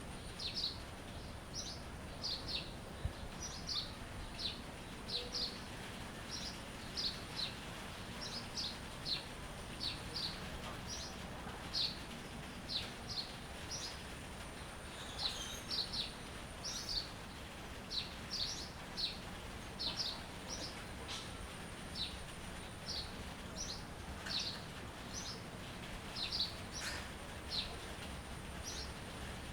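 Songbirds chirping: short, sharp chirps repeated about once or twice a second, over a steady background hiss with a thin, steady high tone behind.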